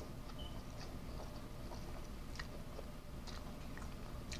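Faint chewing of a mouthful of noodles, with scattered soft mouth clicks.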